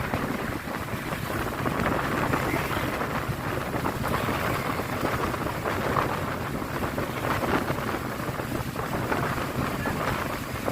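Fast floodwater rushing through the open gates of a river barrage: a steady, dense noise, with wind buffeting the microphone.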